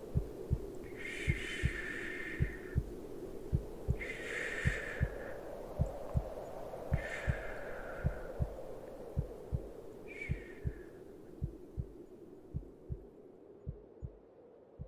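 Slow heartbeat, a steady lub-dub about once a second, over a steady low background hum. Four soft breathy swells come in the first eleven seconds, and everything fades down near the end.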